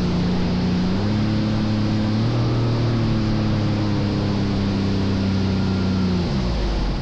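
Jet ski engine running over wind and water noise. Its hum steps up in pitch about a second in and falls away near the end.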